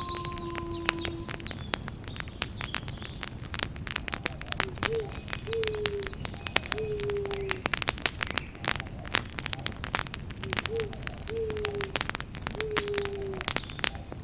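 Campfire crackling and popping steadily over a low rumble of flame. A bird calls twice, each time three low hoots with the last notes sliding down. A held tone stops about a second in.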